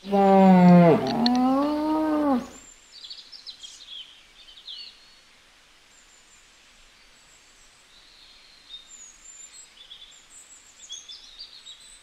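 A deep, drawn-out lowing call lasting about two and a half seconds, its pitch sliding down and then swelling up and falling again before it cuts off abruptly. Faint bird chirps follow for the rest of the time.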